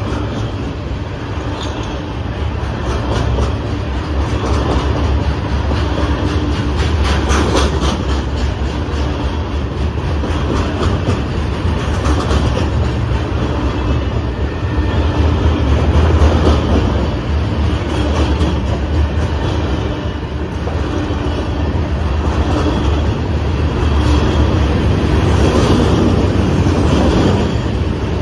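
Loaded ballast hopper cars rolling past: a steady, heavy low rumble with repeated wheel clicks over the rail joints.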